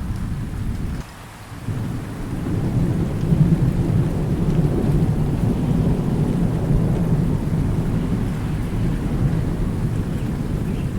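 Thunderstorm: a deep, continuous thunder rumble over steady rain. The rumble cuts out briefly about a second in, then swells back up over the next few seconds.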